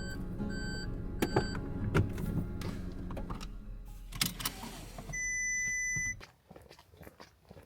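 Car interior with its engine or electrics running, with a few sharp clicks. About five seconds in, a steady electronic beep sounds for about a second; then the hum cuts off abruptly, as when the engine is switched off.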